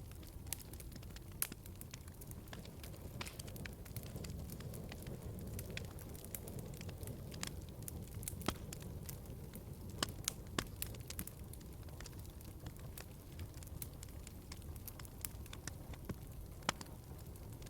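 Wood fire crackling in a fireplace: frequent, irregular sharp pops and snaps over a low, steady rumble of the flames.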